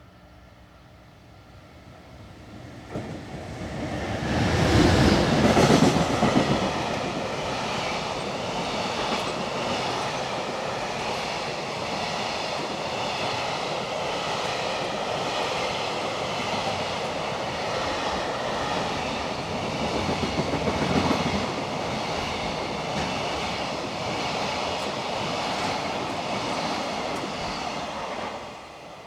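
An electric-hauled freight train passes: the locomotive comes up and goes by loudest about five seconds in, then a long string of freight wagons rolls past steadily until the sound drops away near the end.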